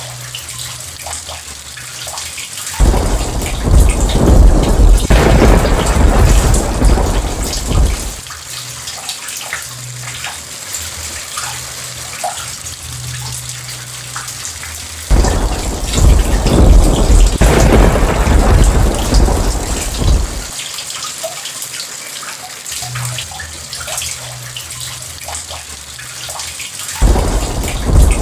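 Steady rain with three loud rolls of thunder, each starting suddenly and rumbling for about five seconds: one about three seconds in, one about halfway, and one near the end.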